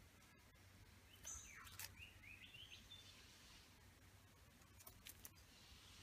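Faint bird calls: a few sharp clicks about a second in, then a short run of chirps stepping up in pitch, and more clicks around five seconds in.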